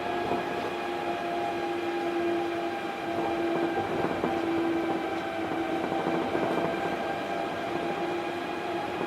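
Osaka Monorail 1000 series train heard running from on board: a steady whine of several held tones from the drive, over the rumble of the rubber-tyred running gear on the track beam.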